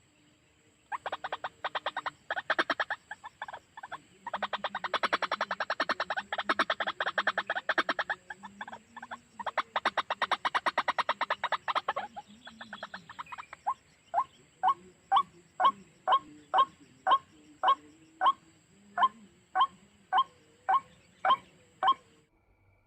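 White-breasted waterhen calling: long runs of fast croaking pulses with short breaks, then, from about halfway, a steady series of separate sharper notes about two a second.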